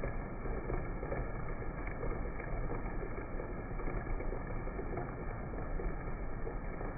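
Steady rain and wind noise, an even rush with no distinct drops or gusts standing out.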